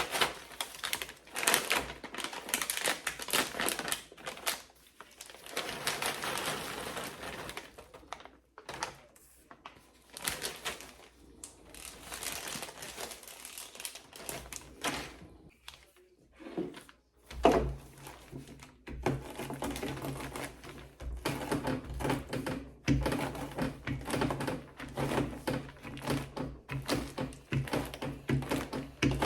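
Pecans in a plastic Ziploc bag being handled and crushed: crinkling plastic at first, then a loud thump about 17 seconds in and rapid repeated knocks from then on.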